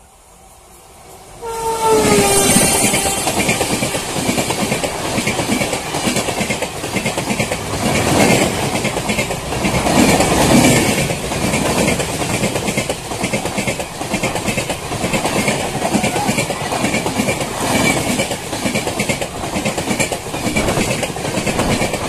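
WAP7 electric locomotive blaring its horn briefly about a second and a half in, the pitch dropping as it passes close by. A long express train follows, its coaches rushing past at speed with a rapid rhythmic clatter of wheels over the rail joints.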